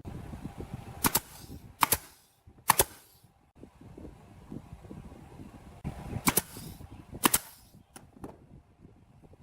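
A series of sharp, loud knocks from woodworking: three in the first three seconds, two more about six and seven seconds in, then a couple of faint taps.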